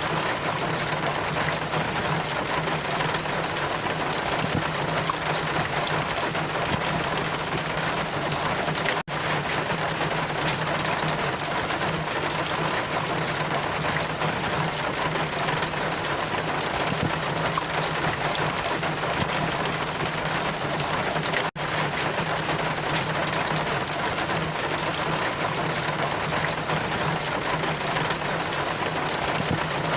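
Steady rain ambience, an even dense hiss with a low steady drone beneath it, cut by two split-second drop-outs, about nine and twenty-one seconds in.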